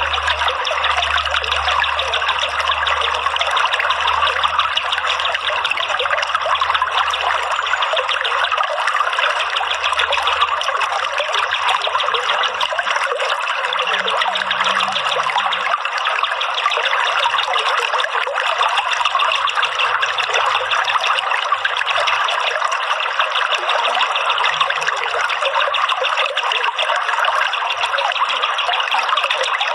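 Water trickling and splashing steadily, like a small stream or fountain.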